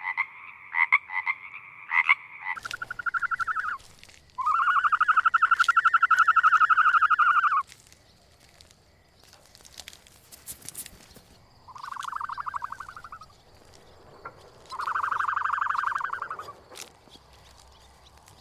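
Frogs calling: a quick run of short croaks. After a change of scene, four long trilled calls follow, each one to three seconds long, with the longest and loudest about four seconds in.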